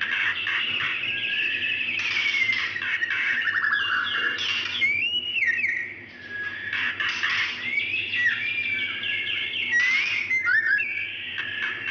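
Female white-rumped shama calling in a steady run of varied whistles, rising and falling glides and fast trills, with a short lull about six seconds in. These are the calls of a female in breeding condition calling to a male.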